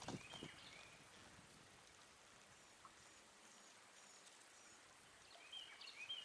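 Near silence with a few faint bird chirps, short high calls near the start and again near the end.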